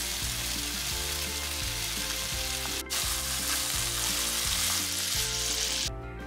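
Sliced lotus root and carrot sizzling in hot oil in a frying pan as they are stir-fried with a little sesame oil. The sizzle breaks off for an instant about three seconds in and stops abruptly near the end.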